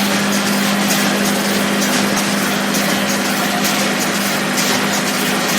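Puffed snack production line machinery running steadily: a strong, even electric-motor hum under a hiss and a dense rattle of small clicks.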